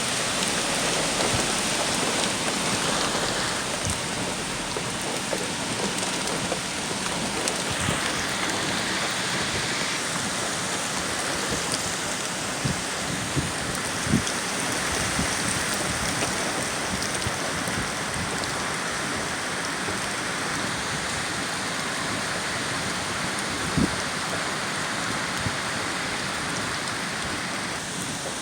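Steady rain falling from Hurricane Ian, with a couple of sharp drips or taps, one about halfway through and one later on.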